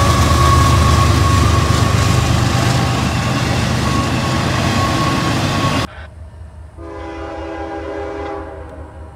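Freight train of double-stack container cars rolling past close by: a loud rumble and rattle of wheels on rail with a steady high-pitched ring over it. About six seconds in it cuts off abruptly to a quieter scene, where a distant train horn sounds a chord for a second and a half.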